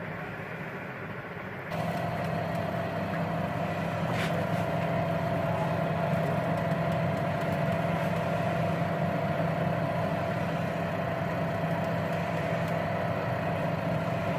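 Washing machine's electric motor running, turning the rotor through the belt: a steady hum that comes up louder about two seconds in and holds level.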